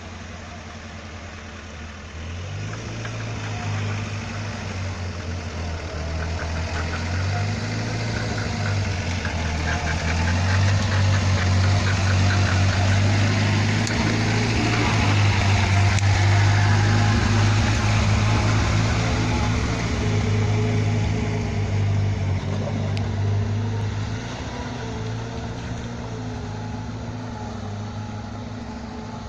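UAZ off-road vehicle's engine running as it drives over rough ground. The revs step up and down, and it grows louder a couple of seconds in, is loudest through the middle, then eases off near the end.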